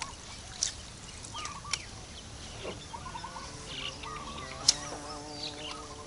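Birds chirping and calling repeatedly, with three sharp clicks. About four seconds in a steady pitched tone with overtones comes in.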